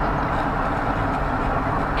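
Steady road and engine noise inside a moving car's cabin, heard through a dashcam's microphone.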